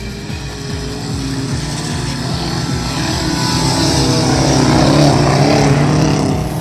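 Stock car racing engines running hard at speed, with the pitch wavering as they rev. The sound grows louder to a peak about five seconds in and drops off sharply near the end.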